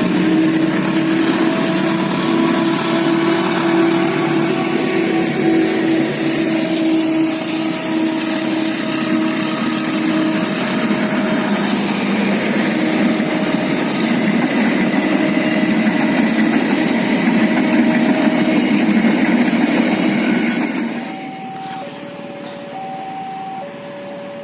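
A CC 201 diesel-electric locomotive running loudly as it hauls its train past, its engine holding a steady drone. About 21 seconds in the engine noise falls away, leaving a level-crossing alarm sounding two alternating tones, which can be heard under the train noise earlier as well.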